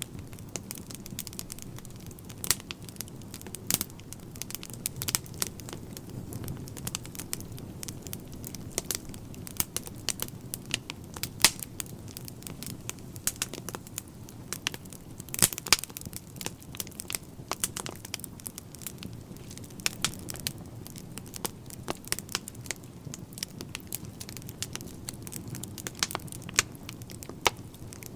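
Wood fire in a fireplace crackling: irregular sharp pops and snaps, several a second, over a steady low background of the burning logs.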